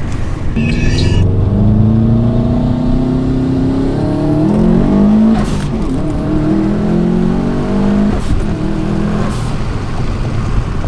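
Subaru WRX engine pulling hard under full-throttle acceleration, heard from inside the car: its pitch climbs, drops at a gear shift, and climbs again through the next gear.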